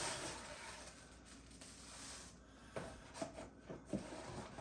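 Faint rustling with a few soft clicks and knocks near the middle, as of packaging being handled.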